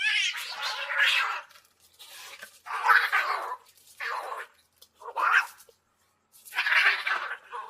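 Angry kittens hissing: about five separate hisses, each lasting up to about a second, with short pauses between them.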